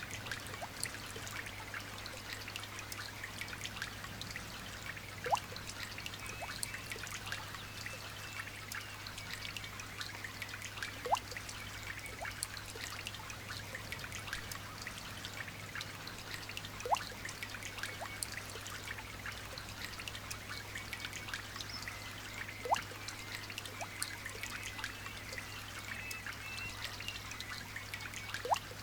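Light rain: a steady trickle of water with a fine patter of drops, and a louder single drip plinking about every six seconds. A low steady hum runs underneath.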